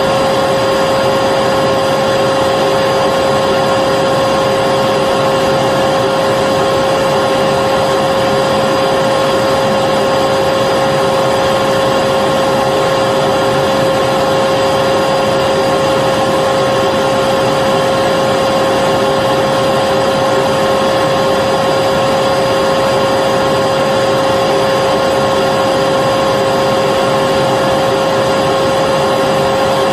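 Vacuum cleaner running steadily: a constant motor whine over the rush of air, unchanging in pitch and loudness.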